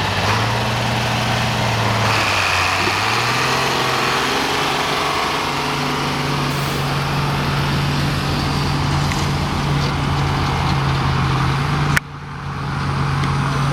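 International Harvester 806 tractor engine under heavy load pulling the sled, running hard and steady. Its pitch dips briefly about two seconds in, then recovers and holds. Near the end the sound drops off suddenly and then builds back up.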